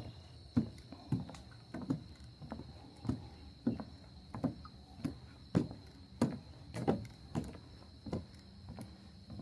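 Footsteps on a wooden boardwalk, about one and a half steps a second at a steady walking pace, over a steady high-pitched hum.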